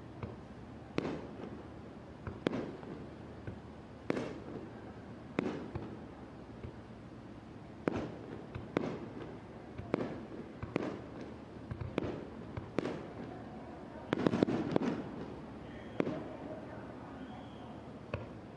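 Aerial firework shells bursting one after another, a sharp boom every second or so, each trailing off in a rolling echo, with a quick volley of bangs about fourteen seconds in.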